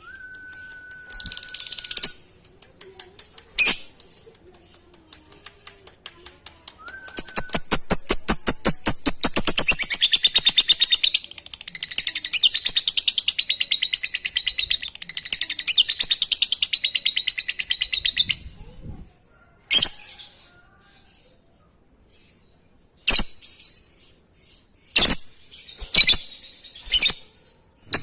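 Lovebird giving a long ngekek: a very rapid, high-pitched chattering trill lasting about ten seconds, followed by a handful of short sharp chirps. A brief steady whistle-like tone and a couple of clicks come before it.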